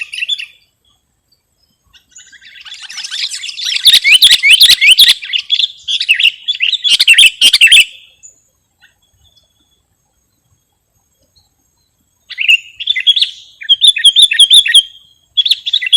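Sooty-headed bulbul (kutilang) singing in runs of quick, high chirps: a long run from about two seconds in to about eight seconds, a pause of a few seconds, then more short phrases near the end.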